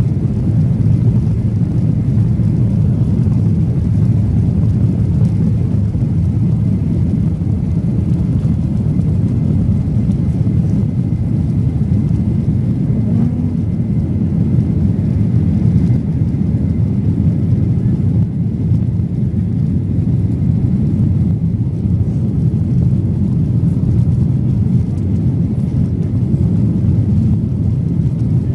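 Steady, dense low rumble of a Boeing 737-800's CFM56-7B jet engines and airflow heard inside the passenger cabin, with a faint thin whine above it.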